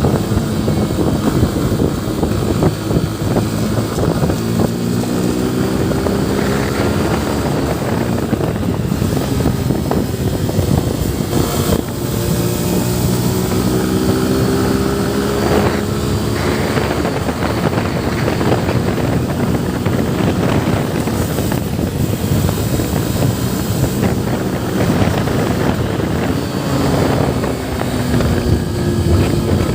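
Yamaha FZ V3 motorcycle's single-cylinder engine running on the move, its pitch climbing several times as the rider accelerates through the gears. Wind noise buffets the microphone throughout.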